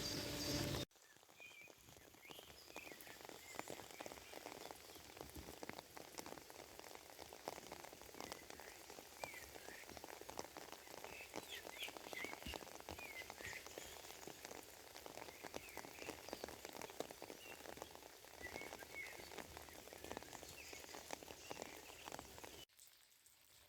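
Rain pattering, with many separate drops ticking, and scattered short high chirps in the background.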